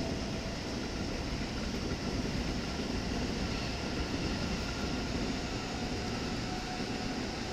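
Electric commuter train running past on the depot and main-line tracks: a steady rumble with a faint, even whine above it.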